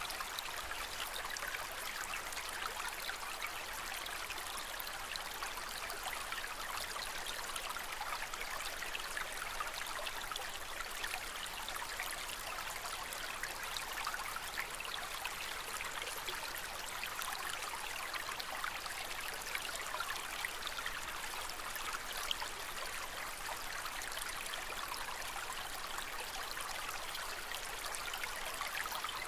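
Aquarium water trickling and splashing steadily, an even hiss with a fine crackle of small splashes.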